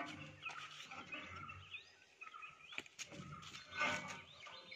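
Outdoor ambience of birds chirping in short rising and falling calls, with a few sharp knocks about three and four seconds in.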